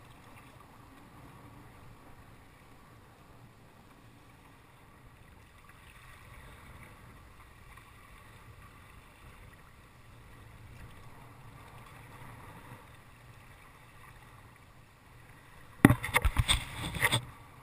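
Faint water and wind noise around a sea kayak on the water, then about two seconds before the end a short burst of several loud knocks and clatter.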